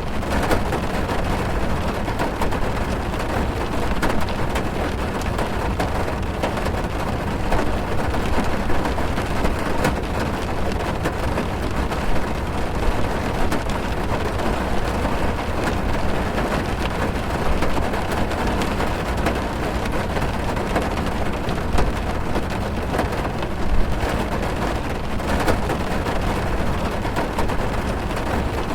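Heavy rain drumming on a car's roof and windows, heard from inside the car: a steady dense patter with scattered sharper drop hits and a deep low rumble.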